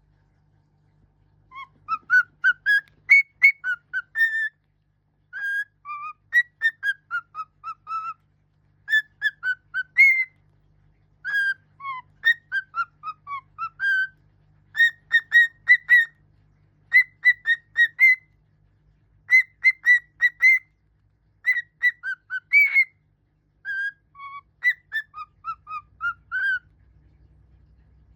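A pet bird whistling a learned melody in phrases of short, clear notes that step up and down in pitch, with brief pauses between phrases.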